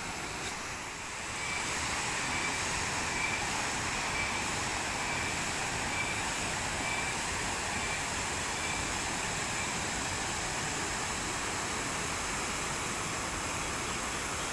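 River water rushing over rocks: a steady, even rush. Faint high chirps repeat about once a second for a few seconds in the middle.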